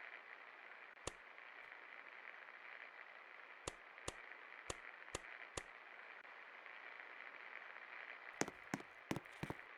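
1979 Jamuna Luxury 56-inch ceiling fan running with a steady, faint whir, broken by scattered sharp clicks that come thicker near the end.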